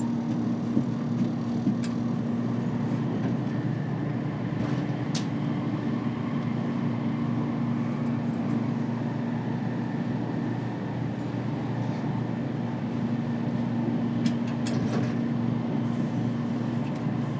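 Running noise inside the cabin of a JR Kyushu 787-series limited express electric train: a steady low rumble with a hum that weakens in the middle and comes back strongly later, and a few light clicks.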